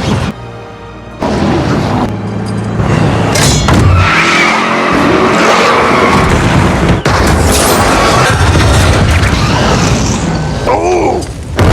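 Action-film soundtrack: dramatic music mixed with a car engine, tyres skidding and heavy booms. It drops briefly in the first second, then stays loud.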